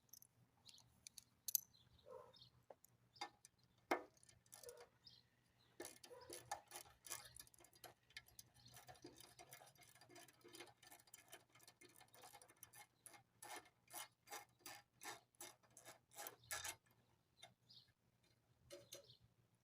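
Faint ratchet wrench clicking, undoing the bolts of a small engine's cover: a few separate clicks and knocks, then a long run of quick, even clicks from about six seconds in that stops near the end.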